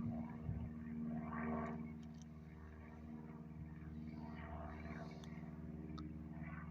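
Steady low engine drone that holds an even pitch throughout.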